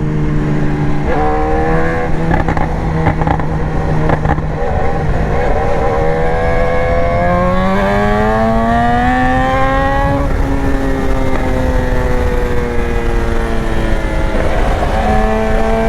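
BMW S1000R inline-four engine running under way at a steady pitch, then revving up as the bike accelerates about halfway through, easing off slowly, and picking up again near the end. Heavy wind rush on the microphone runs under it.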